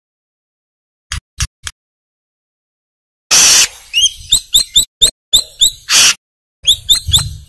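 Brown-throated sunbird (kolibri kelapa) calling: three short sharp chirps about a second in, then from about three seconds a rapid, excited run of high chirps broken by harsh buzzy notes.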